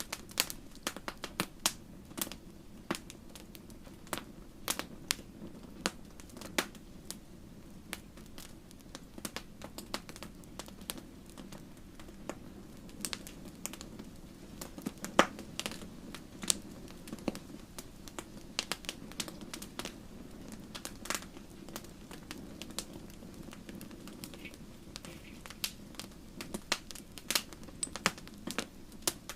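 Wood fire crackling in a fireplace: irregular sharp pops and snaps, several a second, over a steady low rumble of flame.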